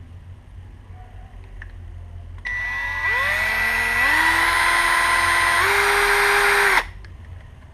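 Small electric motor whining as it spins up, its pitch stepping higher three times, then switched off abruptly.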